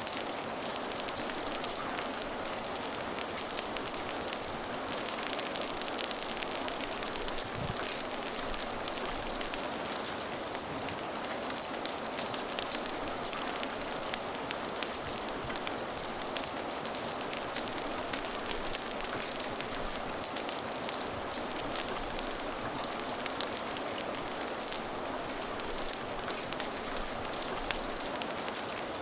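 Steady rain mixed with a crackling fire: an even hiss of rainfall with many small, sharp crackles and pops scattered through it.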